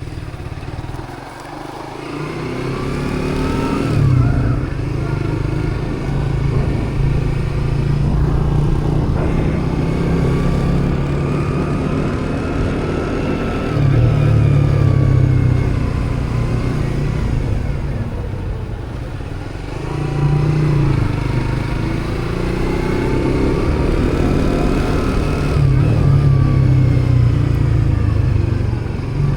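Motorcycle engine running on the road, its pitch climbing and falling as the bike speeds up and eases off about four times. A steady low rumble lies under it.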